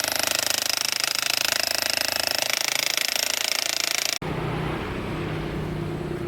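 Jackhammer breaking concrete, firing in rapid, even strokes. It cuts off suddenly about four seconds in, and a quieter, steady hum follows.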